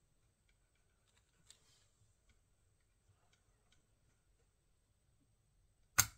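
Faint, scattered light clicks and taps of small hard parts being handled, with one sharp, much louder click near the end.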